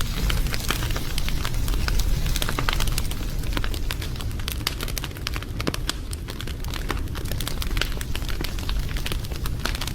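Wood fire burning, with dense, irregular crackling and popping over a steady low rumble.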